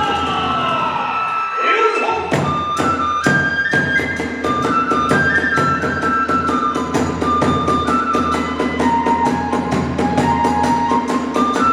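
Hiroshima kagura accompaniment: a bamboo transverse flute plays a held melody that slides in pitch in the first two seconds and then steps between notes, over a quick, steady beat of drum and small hand cymbals.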